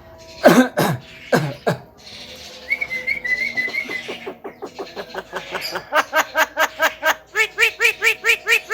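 Javan myna (jalak kebo) calling: a few loud downward-sliding calls, then a warbling whistle, then a run of quick clicks that builds into a fast string of repeated chattering notes.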